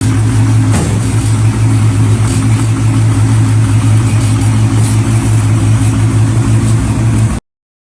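A car engine idling steadily, cutting off abruptly after about seven seconds.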